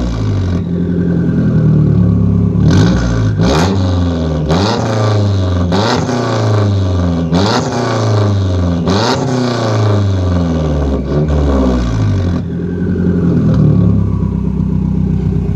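Straight-piped Mazdaspeed3's turbocharged 2.3-litre four-cylinder, with no exhaust mufflers or catalytic converter, revved in a run of about five quick throttle blips, each climbing sharply and falling away. It then settles into a steady idle near the end.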